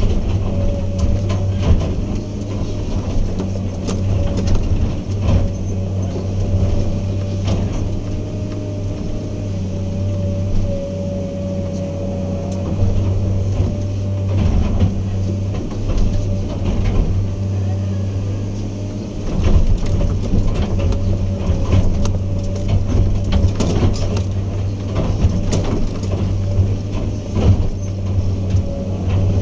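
Heavy diesel earthmoving machine's engine running steadily, with frequent short knocks and clanks over the engine sound.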